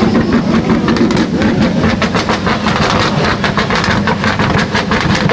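Loud vehicle engine running with a fast, rough, rattling pulse over a low rumble.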